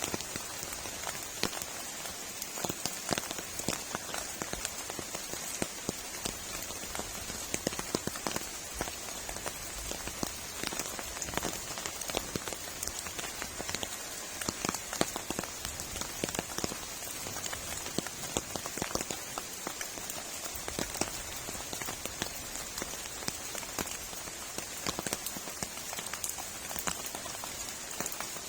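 Heavy rain falling steadily, with many sharp individual drops ticking close by.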